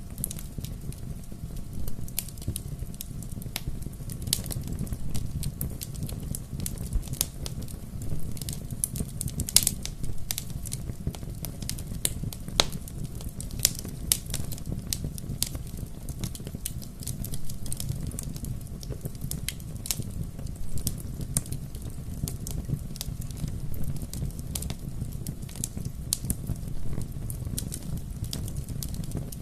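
Bonfire crackling: frequent irregular sharp pops and snaps over a steady low rumble of burning wood.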